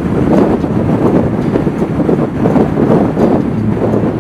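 Strong wind buffeting the microphone of a moving motorcycle, swelling and dropping unevenly, with the bike's engine running underneath.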